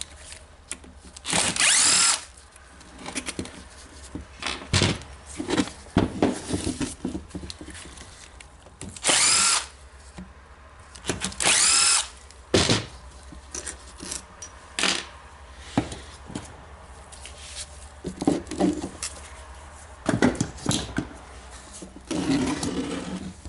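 Power screwdriver running in short bursts, about four, each under a second, backing out long screws from a motor housing; its whine bends in pitch within each burst. Clicks and clatter of handled parts come between the bursts.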